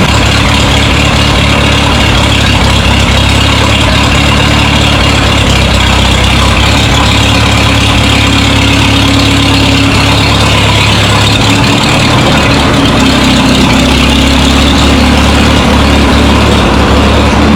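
Minneapolis-Moline tractor engine running steadily, loud and close.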